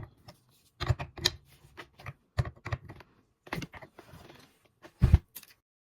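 Small metallic clicks and knocks of a rifle being handled, the AR-15 pistol and its muzzle brake being turned and set, with a louder knock about five seconds in; the sound then cuts off abruptly.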